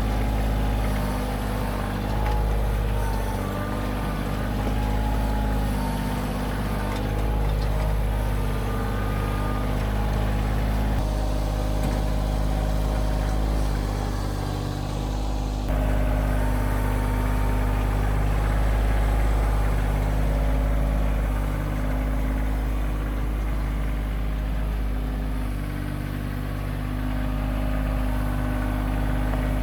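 Compact diesel tractor engine running steadily while the tractor packs soil around a freshly set post. The sound shifts abruptly and gets slightly louder about halfway through.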